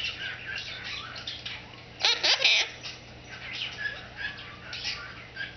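Quaker parrot (monk parakeet) chattering softly in short chirps and clicks, with one louder, harsher squawk-like burst about two seconds in.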